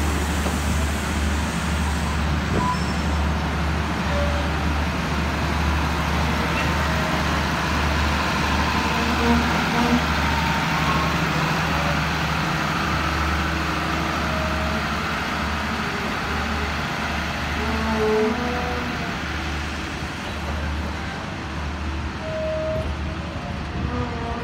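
Diesel-hauled passenger train moving slowly along a station platform: a steady low engine hum with a slow pulse, under the rolling noise of the coaches. A few brief high squeals are scattered through it.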